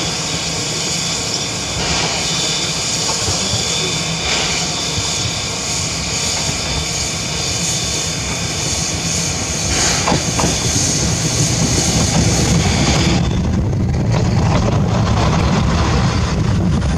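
Mooka Railway steam train: a steady hiss, then about thirteen seconds in the hiss drops away and the low rumble of the train rolling on the rails grows louder.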